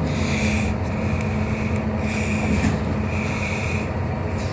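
Steady low hum and rumble heard inside a Scania K320UB hybrid city bus while it runs, with a high tone pulsing on and off about once a second.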